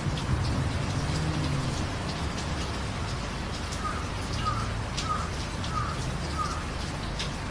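Steady rain falling, with scattered drips striking hard surfaces and a low rumble in the first couple of seconds. From about four seconds in, a bird gives five short calls, roughly two every second.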